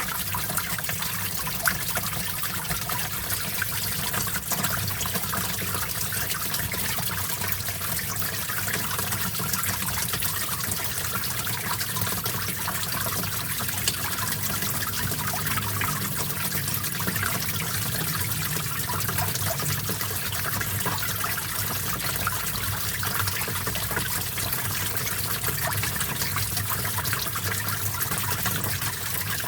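Small stream of water trickling and splashing over stones, a steady even flow.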